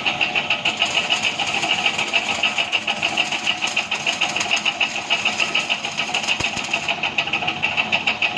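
A machine running steadily with a fast, even pulse of about five beats a second.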